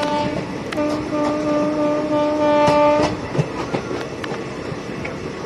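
Train horn sounding: a blast cut short near the start, then a longer blast that stops about three seconds in. Under it run the steady rumble and clickety-clack of the coach wheels on the rail joints.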